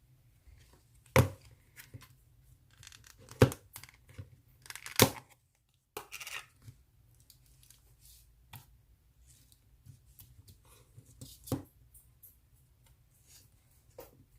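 Avalanche slime being handled: four loud, sharp sticky pops spread through, with quieter crackling and squishing in between.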